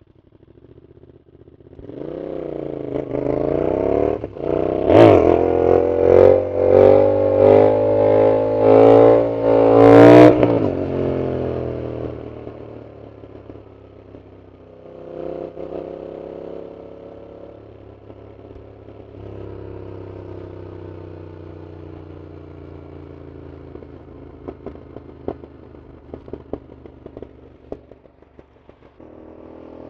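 Yamaha MT-07's CP2 parallel-twin engine through a loud aftermarket full exhaust. It comes in after a quiet start and accelerates hard in a string of rapid surges in revs, loudest about ten seconds in. The revs then drop and it runs quietly at low revs, with a few sharp pops near the end.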